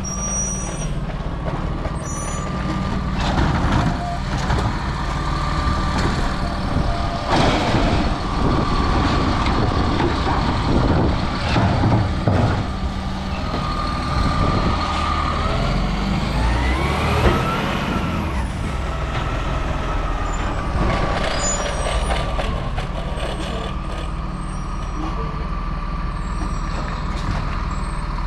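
Autocar Labrie Automizer automated side-loader recycling truck working: its engine runs steadily under a constant whine. Hisses and clatter come in the first half, and a whine rises and falls in pitch a little past the middle.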